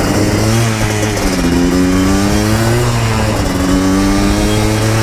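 Yamaha Blaster 200 ATV's two-stroke single-cylinder engine under way, its pitch climbing and dropping back about three times as it revs up through the gears.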